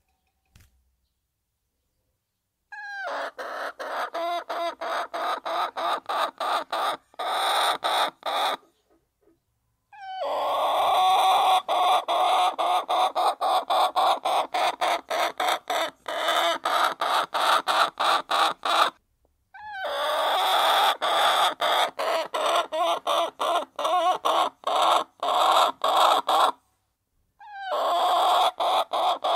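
A flock of hens clucking steadily while feeding. The sound comes in long stretches, broken by short, abrupt silences after a silent start.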